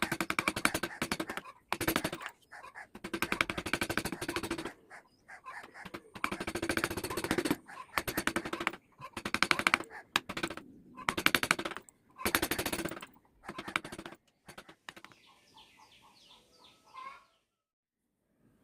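Carving tool working wood in short rasping strokes, each about a second long with brief pauses between. A fainter, higher-pitched sound follows near the end.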